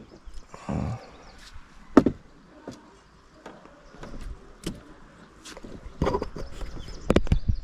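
Scattered knocks and thumps in a small john boat, with one loud sharp knock about two seconds in and a quick cluster of knocks near the end.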